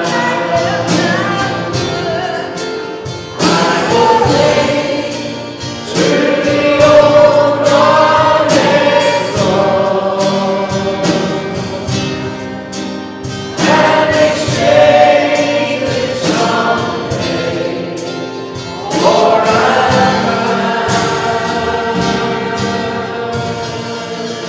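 Church congregation and worship band singing a hymn, sung phrases with a steady beat behind them.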